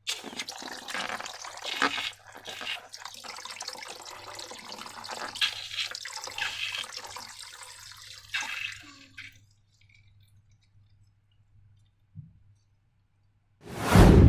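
Wet, sticky slime squelching and crackling with many small clicks as it is worked by hand, stopping after about nine seconds. Near the end comes one short, loud burst of noise.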